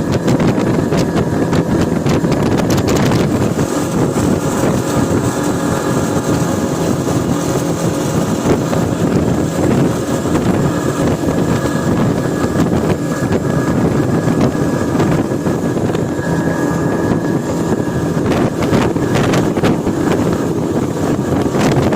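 Speedboat's engine running steadily at speed, with wind buffeting the microphone, more gusty near the end.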